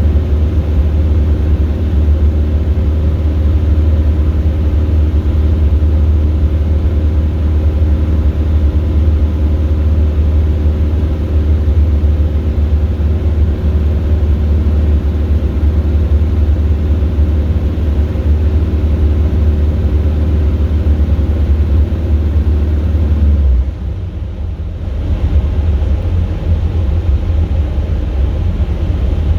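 DR400 light aircraft's piston engine running steadily at idle with the propeller turning, throttled back to simulate an engine failure on a gliding approach, with airflow noise. About 23 seconds in, the engine drone stops abruptly, there is a brief dip, and a rougher rumble follows.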